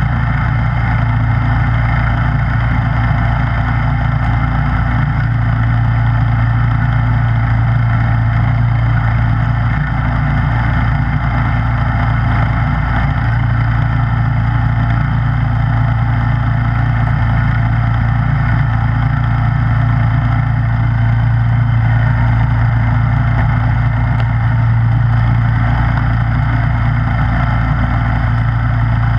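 Snowblower engine running at a steady speed, its pitch and level unchanging throughout.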